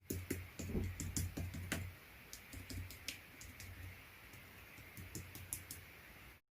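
Quick, irregular small clicks and taps over a low steady hum, busiest in the first two seconds and sparser after. The sound cuts off suddenly just before the end.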